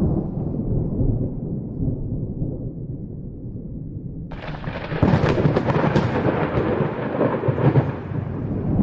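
Thunder sound effect. A low rumble dies down, then about four seconds in a sudden sharp thunderclap breaks out, crackling for a few seconds before settling back into rumble.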